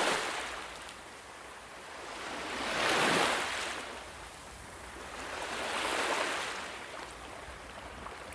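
Ocean waves washing in, the surf rising and falling in slow surges about every three seconds.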